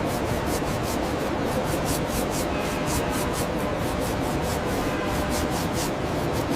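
Steady rhythmic scraping, about four strokes a second.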